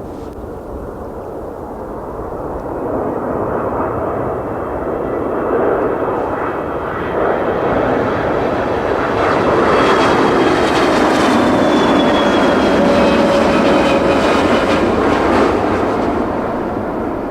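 Boeing 777-200ER jet airliner's twin turbofan engines on landing approach: the jet noise grows steadily louder and peaks over the second half. Its whining tones slide slowly down in pitch as the aircraft passes.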